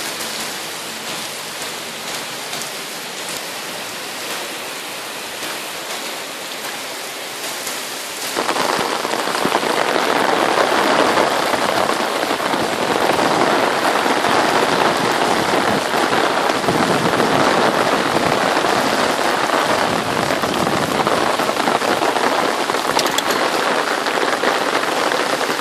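Thunderstorm rain pouring onto wet street pavement, a steady wash of noise that turns abruptly louder about eight seconds in.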